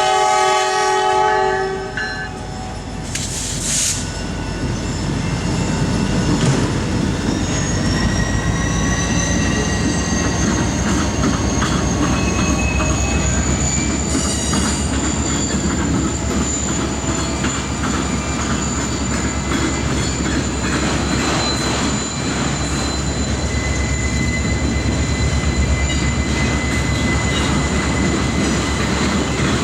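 A CSX freight locomotive's horn sounding a chord that cuts off about two seconds in, then the train of autorack cars rolling past with a steady rumble, wheel clatter over the rail joints and a thin, high wheel squeal.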